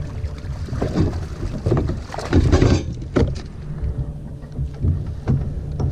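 Handling noises on a fishing kayak: irregular knocks and scrapes, loudest about two and a half seconds in, over a steady wind rumble on the microphone.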